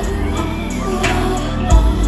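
Live pop music over a festival sound system: heavy bass, a singing voice and a loud beat hit near the end.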